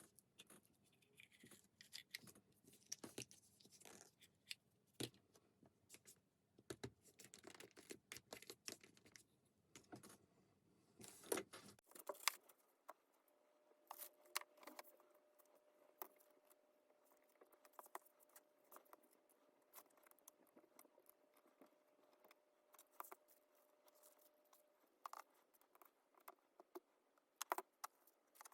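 Faint scattered clicks, taps and light scrapes of small metal parts and tools being handled while a cordless drill is worked on.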